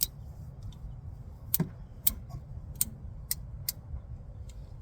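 A reversible ratchet tightening a new oil filter on a 2008 Dodge Caliber, giving about seven sharp clicks at uneven intervals.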